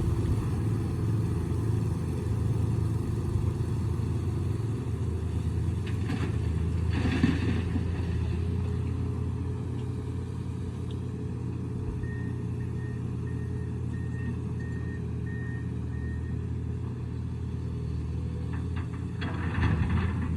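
Excavator's diesel engine running steadily, with bursts of clattering about a third of the way in and again near the end. A series of faint short beeps, about two a second, sounds for a few seconds past the middle.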